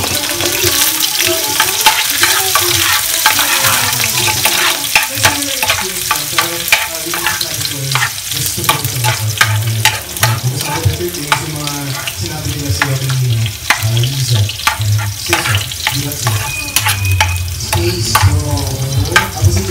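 Chopped onions and garlic sizzling in oil in a metal pan, stirred with a metal spatula that scrapes and clicks against the pan again and again.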